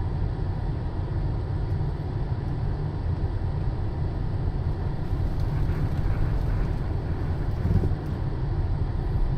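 Off-road truck engine running steadily with a low rumble.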